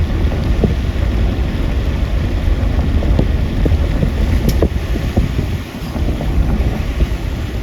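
Wind buffeting the microphone over a steady low rumble, with scattered faint clicks.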